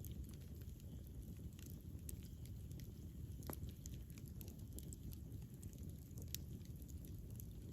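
Campfire burning with a steady low rumble and irregular sharp crackles and pops of burning wood, a few louder snaps among them.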